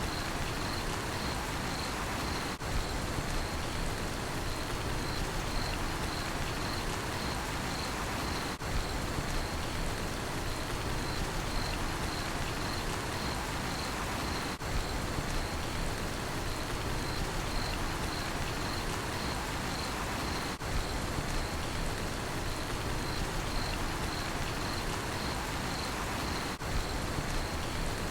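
Steady rain falling, with a cricket chirping in an even, continuous pulse of high-pitched notes over it. Brief dips in the sound about every six seconds mark the seams of a short looped recording.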